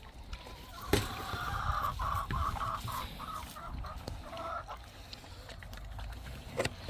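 Domestic hens clucking in a run of short, broken calls, mostly in the first two thirds, with a few scattered clicks.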